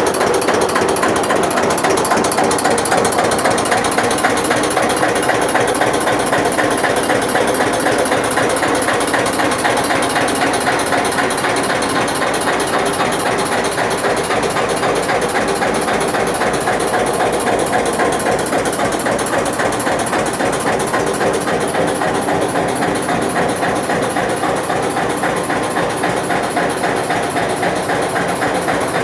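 1981 Eicher tractor's diesel engine running steadily with a fast, even clatter.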